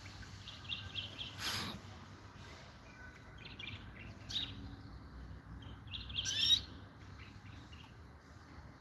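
European goldfinch singing in short scattered twittering chirps, with a louder rising phrase about six seconds in. A brief noisy burst sounds about a second and a half in.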